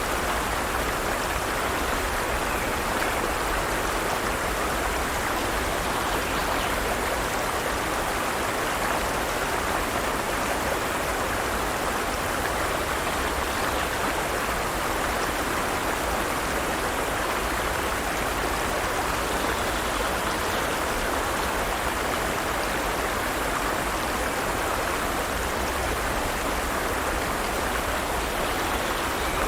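Forest stream flowing steadily over rocks: an even, continuous rush of water.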